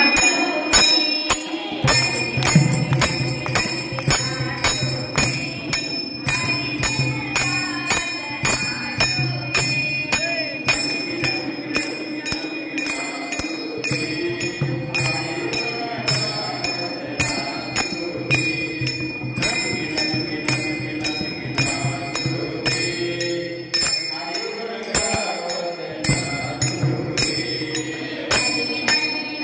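Devotional Marathi bhajan music with jingling hand percussion striking a steady beat about twice a second over a sustained melody.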